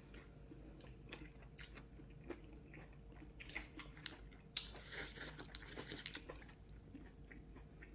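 A person chewing and eating food, with scattered light clicks.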